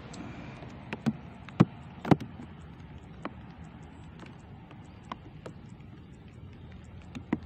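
A few sharp clicks and knocks over a faint steady hiss, with the two loudest about half a second apart near the start.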